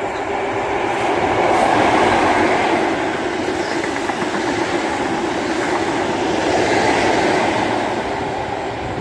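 ScotRail HST, a high-speed train with Class 43 power cars, passing through a station at speed without stopping. The running noise is loudest about two seconds in and again around seven seconds.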